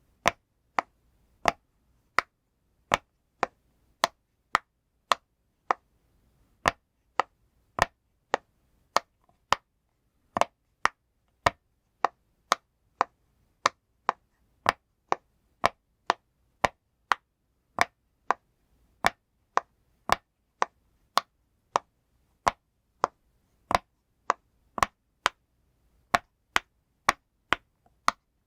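A pop toy being pressed over and over, each press giving one sharp pop at a steady pace of about three pops every two seconds.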